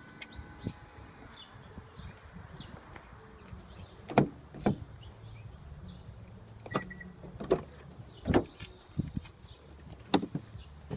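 Sharp clunks and knocks from someone getting into a car, about half a dozen spread a second or two apart. Faint high chirps repeat behind them.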